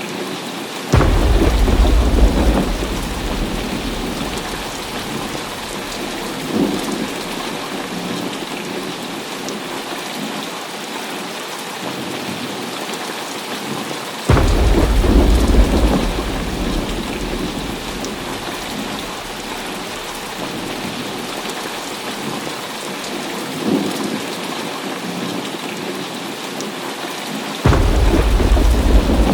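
Heavy rain falling steadily with thunder. Three thunderclaps break in suddenly, about a second in, near the middle and near the end, each a deep rumble that fades over a few seconds, with two fainter rumbles between them.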